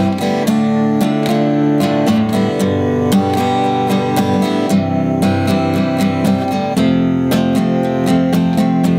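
Acoustic guitar strummed in a steady rhythm, about three or four strokes a second over ringing chords: an instrumental passage of a folk song with no singing.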